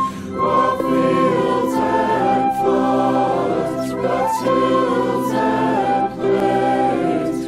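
Choir singing a slow, sustained passage, the top voice stepping down from one long held note to the next, with soft 's' sounds between phrases.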